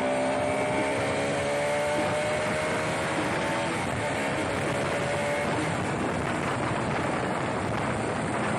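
A single-cylinder 199.5 cc Bajaj Pulsar RS200 engine pulling under way, its pitch rising steadily, over an even rush of road and wind noise. The engine tone fades into the noise about five seconds in.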